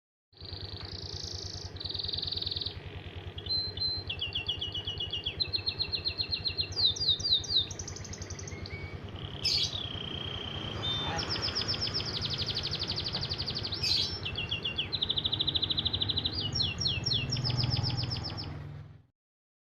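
Songbird singing a long, varied song of rapid trills and quickly repeated notes, over a low steady hum. It starts about half a second in and cuts off near the end.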